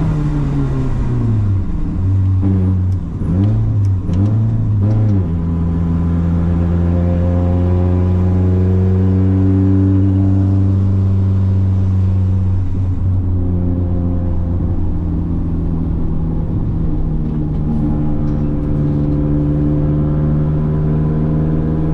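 Audi quattro race car's engine heard from inside the cabin while driving: the revs fall away, rise and fall a few times between about two and five seconds in, then hold a steady loud note, with a brief dip about midway.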